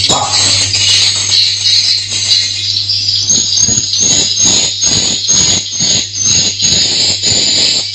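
Swiftlets twittering in a continuous high chatter of chirps that repeat quickly and evenly, over a steady low hum. About halfway in, a rhythmic noise starts at roughly two strokes a second.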